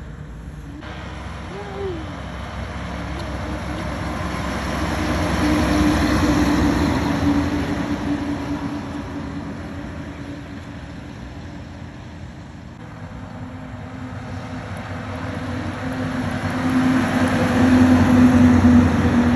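Heavy vehicles driving past, engine drone and road noise swelling and fading as one goes by, then building again as another approaches near the end.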